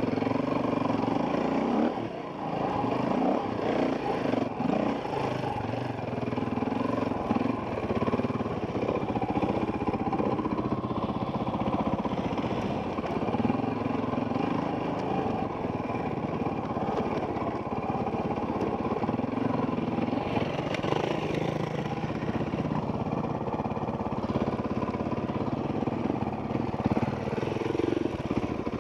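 Dirt bike engine running under changing throttle on a trail ride, the revs rising and falling throughout, with a short drop in level about two seconds in.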